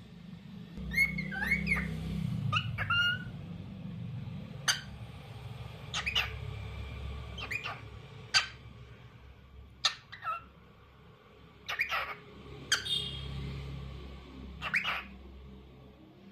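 Lutino cockatiel chirping and whistling in a series of short, separate calls, about a dozen, some gliding up and down in pitch.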